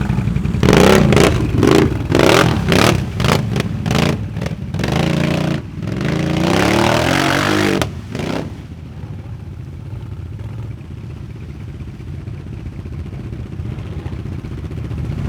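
A 4x4 ATV engine revving hard in quick repeated bursts, then held at high revs for a couple of seconds. About eight seconds in it drops back to a lower, steady running sound.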